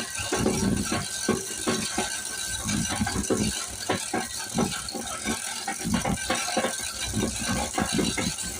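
Toyota Land Cruiser 2F inline-six petrol engine running with an uneven rattling knock, a few beats a second, over a low hum.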